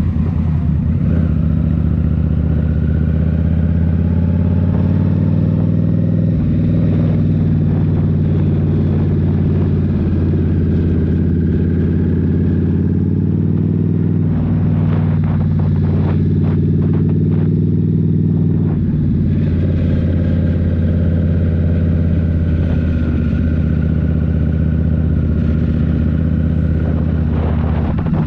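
Indian Scout Rogue's liquid-cooled V-twin running through a Rinehart slip-on exhaust while riding, its pitch rising and falling with the throttle. A rougher, noisier stretch comes through about halfway.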